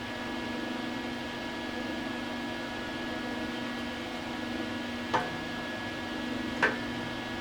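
Steady machine hum in a workshop, with two short sharp knocks about a second and a half apart near the end.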